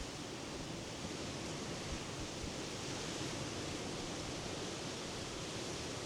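Sea surf off the Norwegian coast: a steady, even rush of waves with no single break standing out.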